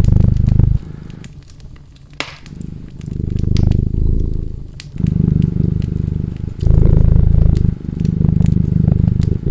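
A cat purring loudly in long in-and-out breaths, with a short pause after the first second, over a wood fire crackling with scattered sharp pops, the sharpest a little after two seconds in.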